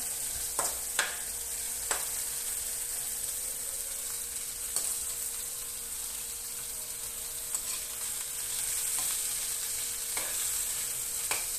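Sliced onion and ginger sizzling in hot oil in a metal wok, with a ladle clinking and scraping against the wok a few times as they are stirred.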